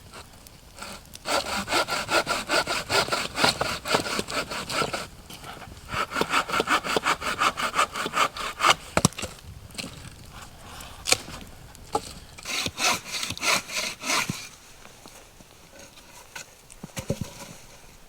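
Hand saw cutting through wood with quick back-and-forth strokes, in three bouts of sawing with short pauses between them.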